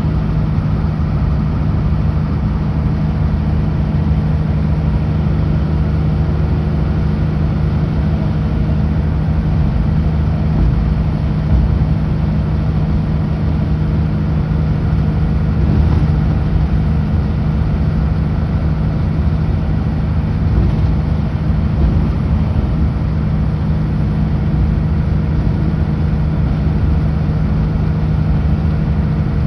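Kenworth W900L truck's diesel engine running steadily at highway cruising speed: an even, unchanging drone under constant road noise.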